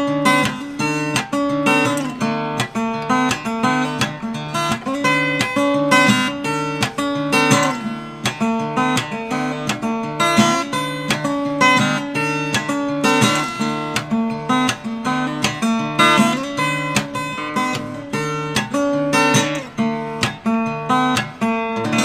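Solo acoustic guitar playing an instrumental passage without singing: quick, evenly paced plucked notes over a sustained bass line.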